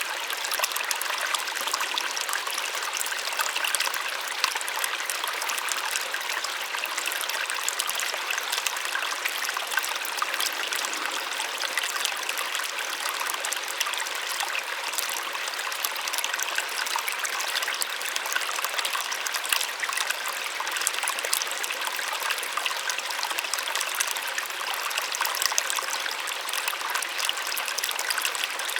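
Small waterfall splashing steadily, its sound bright and light with little low rumble.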